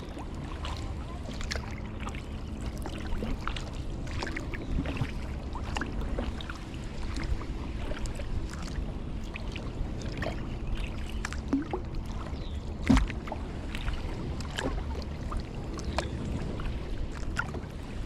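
Kayak paddle strokes: the blades dip and splash in the lake water with scattered drips and small knocks, and one sharper knock about 13 seconds in, likely the paddle striking the kayak's hull.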